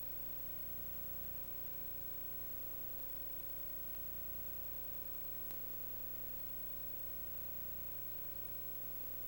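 Steady electrical hiss and hum with a constant tone, the noise floor of a recording or playback with no other sound, broken only by one faint click about five and a half seconds in.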